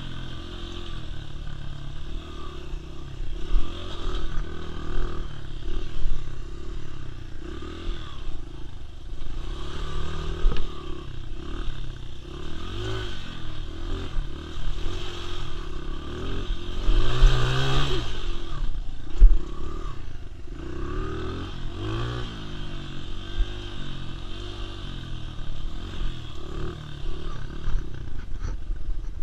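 Dirt bike engine revving up and down repeatedly, with scattered knocks and clatter; the loudest rev comes about two-thirds of the way through.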